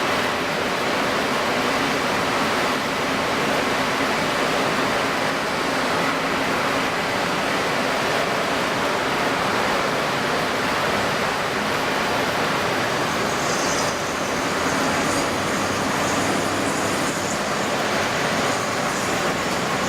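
Steady rushing noise of strong wind and choppy water, sped up to 1.75 times, with a faint high whine in the second half.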